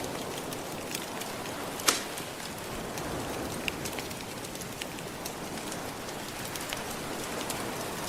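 Fire crackling, with scattered small pops and one louder snap about two seconds in, over a steady wash of gentle ocean waves.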